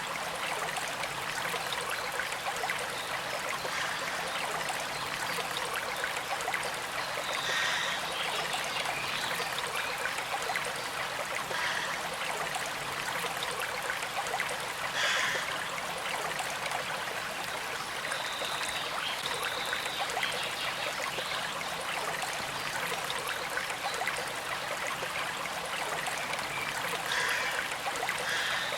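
A small stream flowing and trickling steadily: an even, continuous rush of moving water.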